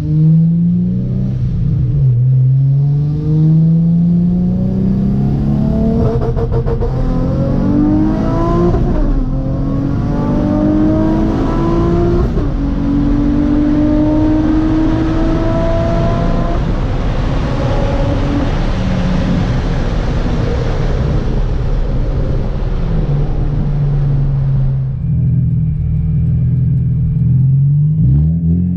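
Supercharged Nissan 350Z V6 with an ISR single exit exhaust accelerating hard through several gears. The engine note climbs, drops briefly at each upshift and climbs again, then eases back to a steady lower drone a few seconds before the end.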